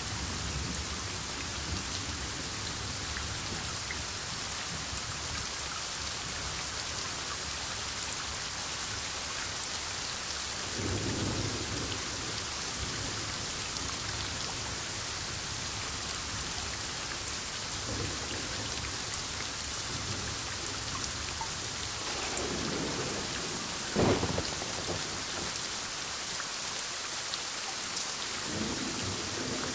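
Heavy, steady rain falling through a thunderstorm, with thunder rumbling several times. A sharp clap of thunder about two-thirds of the way in is the loudest moment, and another rumble builds near the end.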